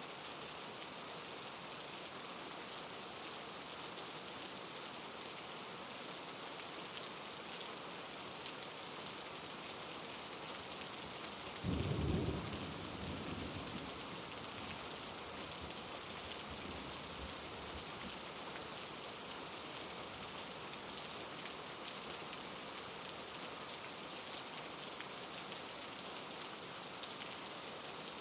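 Steady rain falling, with a single clap of thunder rumbling briefly a little before the middle.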